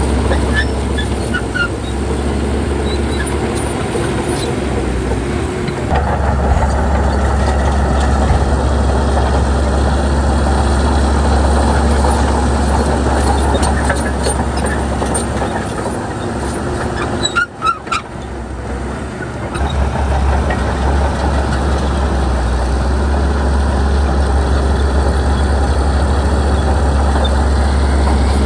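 Bulldozer's diesel engine running steadily under load, with a strong low hum. It gets louder about six seconds in and dips briefly a little past the middle.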